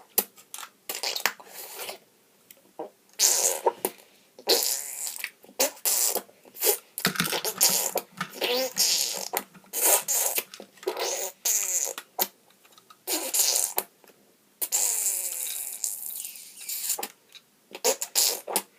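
A child making transformation sound effects with his mouth for a toy robot: a long run of short, irregular hissing and whooshing bursts, some with sliding pitch.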